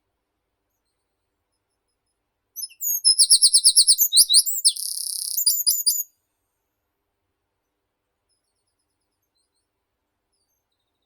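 A single songbird song phrase a few seconds in: a fast run of repeated high notes, then a short buzzy trill, ending in a few quick flourish notes.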